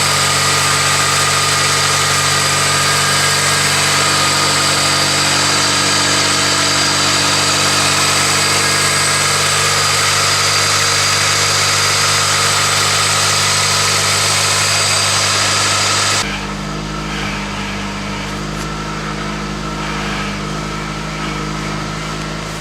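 1999 Toyota Corolla's 1.8-litre four-cylinder idling fast just after a cold start. About sixteen seconds in, the engine note drops suddenly and becomes quieter, then holds steady.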